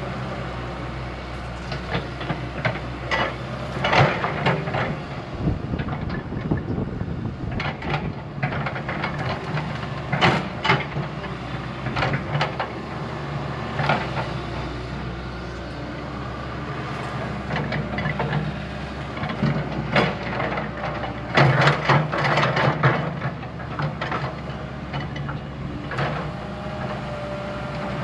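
Diesel earthmoving machine running steadily under load, with repeated irregular clanks and knocks of steel against dirt and rock as it works.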